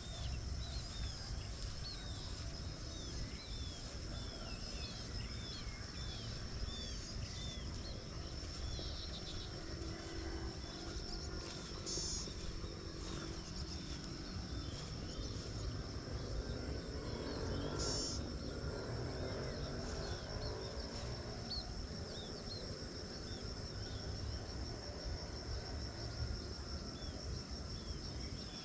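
Morning rice-paddy ambience. A steady high insect drone runs throughout, with many short bird chirps repeated again and again, over a low rumble.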